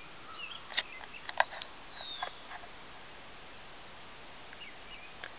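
Faint short bird chirps and a few sharp clicks, the loudest about a second and a half in, over a quiet steady hiss.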